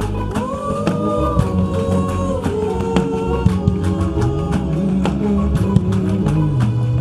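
Gospel worship music: a voice sings long held, gliding notes over a bass guitar line that walks up and down, with steady light percussion.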